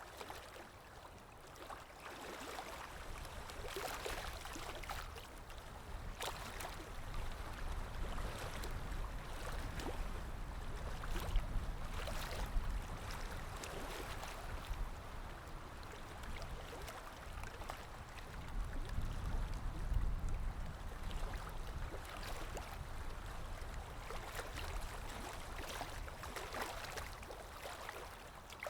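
Underwater water ambience: a steady low rumble of moving water with irregular bubbling and gurgling throughout.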